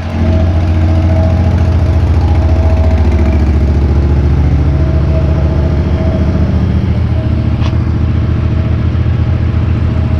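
Small engine of a golf-course bunker rake machine running steadily under load while it pushes snow. It is loud, with a fast, even pulse.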